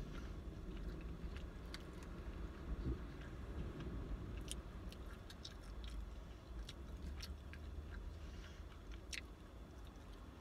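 A person chewing a mouthful of loaded curly cheese fries, with scattered light clicks as a plastic fork scoops more from the container.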